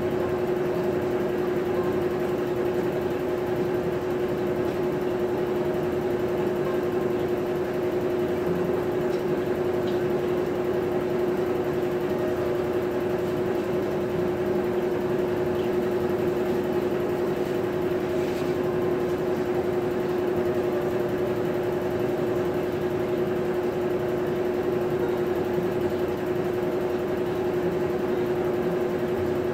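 Maytag top-load agitator washing machine running: a steady motor hum with one constant tone.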